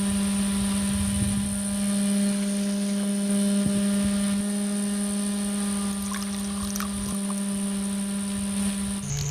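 Small electric motor of a homemade model machine running at a steady speed with an even whine-like hum, with a few faint clicks a little past the middle.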